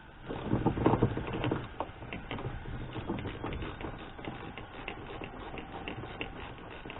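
A few knocks in the first couple of seconds, then a steady run of light, rapid clicks from hand work on the car's interior trim and fittings.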